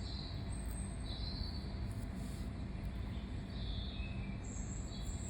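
Birds chirping, short high calls every second or so, over a steady low background rumble.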